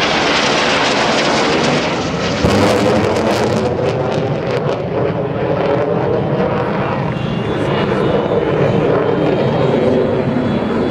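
North American F-100F Super Sabre's J57 turbojet roaring past overhead. A high whine drops in pitch at the very start, then a rough rumble crackles for a couple of seconds from about two and a half seconds in and steadies.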